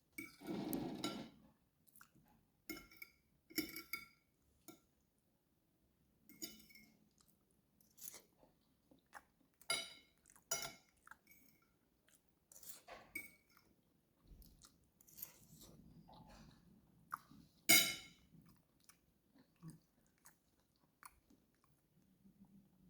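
A person chewing food close to the microphone: irregular wet smacks and crunches, with a few light clinks of cutlery or dishes.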